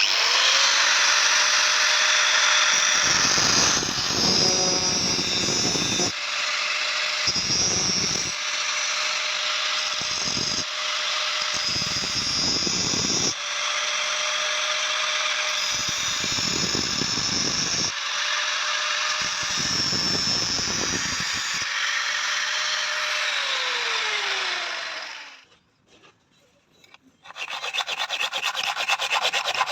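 Electric grinder running, with metal pressed against the wheel again and again in spells of heavier grinding. Near the end it is switched off and its pitch falls as it winds down. After a short pause, a rasping, filing-like scraping starts.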